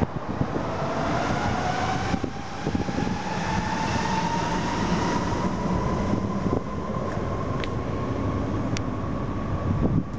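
Honda CB250T motorcycle with a swapped-in 400cc engine running, its pitch rising slowly and steadily as it speeds up.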